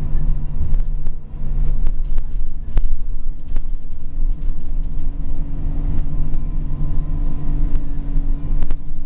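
Scania L94UB city bus engine running steadily under way, a deep hum with a few sharp knocks.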